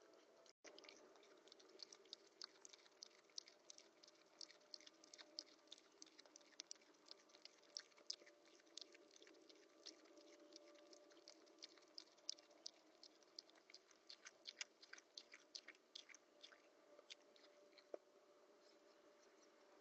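Small rodent chewing and cracking seeds: a fast, faint run of crunchy little clicks, several a second.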